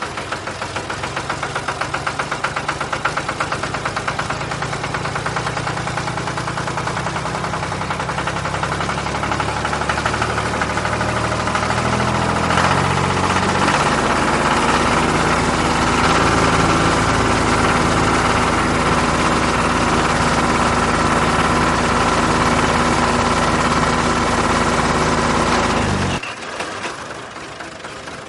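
An engine running with a fast, even knocking beat. Its pitch shifts about halfway through, then it cuts off suddenly about two seconds before the end, leaving a quieter sound.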